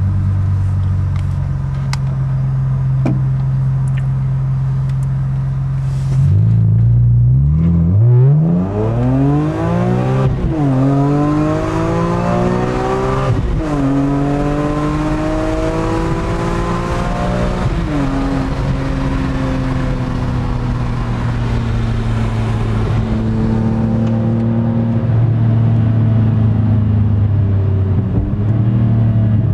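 BMW E46 M3's 3.2-litre S54 straight-six, heard from inside the cabin, drones steadily, then about six seconds in pulls hard and climbs in pitch through the gears. Three quick upshifts of the SMG II gearbox each drop the pitch sharply, and the engine then settles to a steady cruise.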